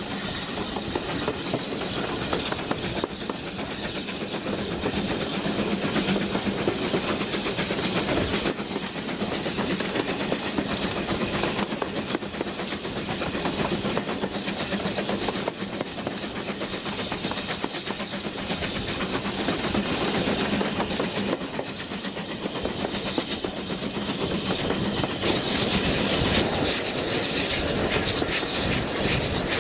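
A steam-hauled heritage train heard from inside a moving carriage: the steady running noise and clatter of the wheels on the rails.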